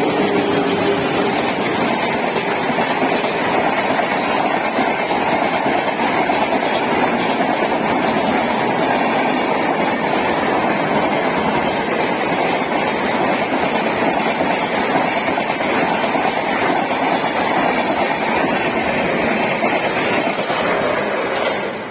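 Hyderabad–Jaipur Superfast Express train running past, a steady loud rush and rumble of the coaches on the rails, with the end of its horn fading in the first second. The sound falls away just before the end.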